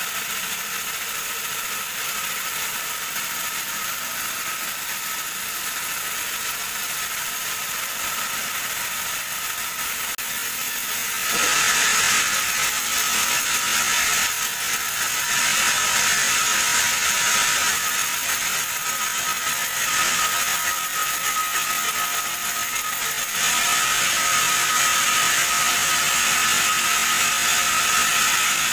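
Sawmill band saw running with a steady high whine and hiss. It grows louder about eleven seconds in, and again a little past twenty-three seconds.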